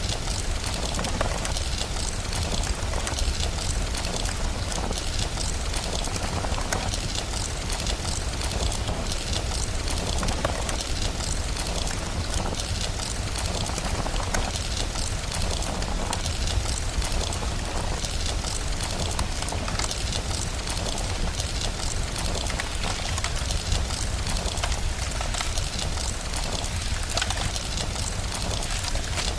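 Rain and a crackling fireplace: a steady hiss of rain over a constant low rumble, scattered with many small crackles.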